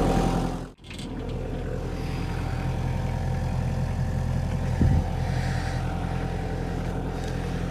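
An engine running steadily, a low hum that briefly cuts out under a second in and resumes at a different pitch, with one sharp knock about five seconds in.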